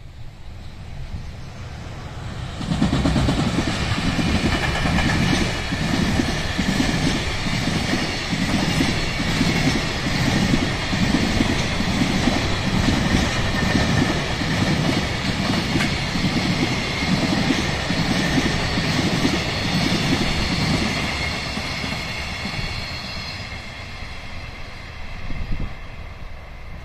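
JR Freight container train passing: the wagons' wheels clatter over the rail joints in a steady rhythm over a continuous rolling rumble. It comes in sharply about two and a half seconds in and fades away over the last few seconds.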